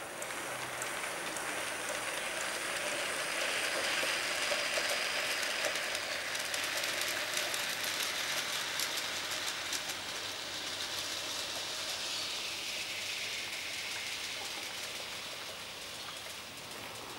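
Garden-scale model train running past on the track: wheels rolling on the rails with a steady hiss and many small clicks. It grows louder over the first few seconds, then slowly fades as it moves away.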